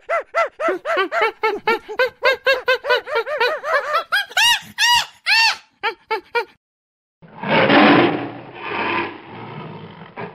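Chimpanzee pant-hoot: a fast run of hooting calls, about four a second, climbing to louder, higher calls at the climax before stopping about six seconds in. After a short pause, a white lion growls roughly in two surges.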